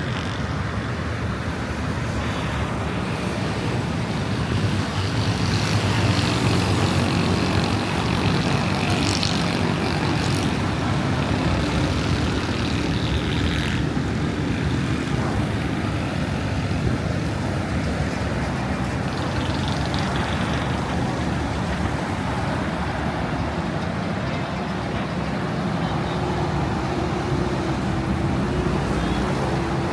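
Steady street traffic noise: vehicle engines running and passing on a busy road.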